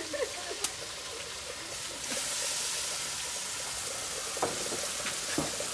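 Chicken pieces sizzling in hot masala in a pot over a wood fire: a steady hiss that grows louder about two seconds in, with a single sharp click near the start.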